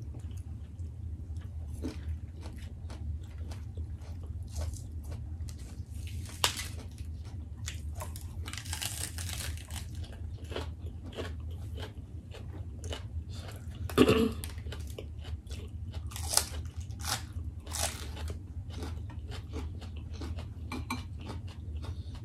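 Close-miked chewing of food eaten by hand, with crunchy bites and many small clicks, over a low steady hum. One louder sharp sound comes about two-thirds of the way through.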